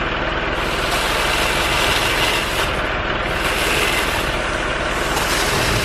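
An engine running steadily at a loud, even level, with slight surges.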